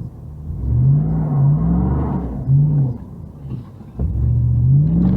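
Car engine revving in three rising surges, a short one in the middle, as it strains to tow a stuck car out of deep snow.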